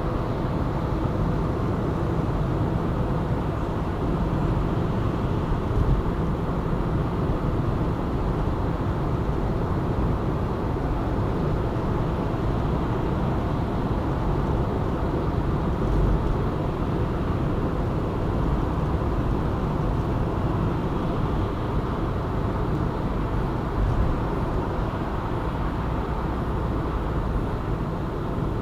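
Steady road noise of a car driving at cruising speed, mostly tyre and engine rumble, with a few brief slightly louder bumps.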